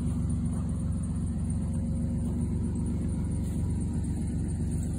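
Plymouth Voyager minivan's engine idling steadily, an even low hum.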